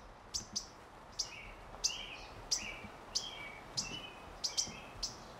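A small songbird chirping repeatedly, short high calls that sweep quickly downward, about two a second, over a faint quiet background.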